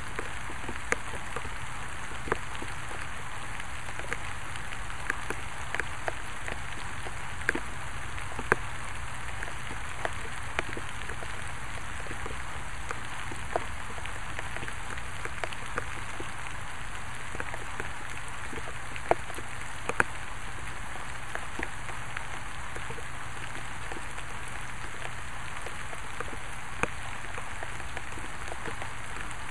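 Steady rain falling, an even hiss with louder single drops ticking at irregular moments.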